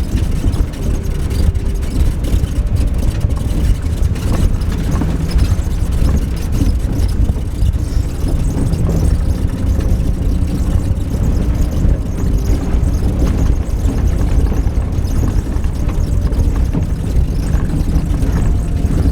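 A van driving on a rough backcountry road: steady low rumble of engine and tyres, unbroken throughout.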